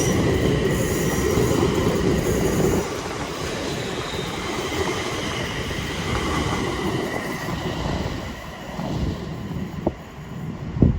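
A double Class 350 electric multiple unit running past on the rails, with a faint steady wheel squeal over the rumble. The noise is loudest for the first three seconds, then drops and fades away as the train clears the station. A short sharp knock comes near the end.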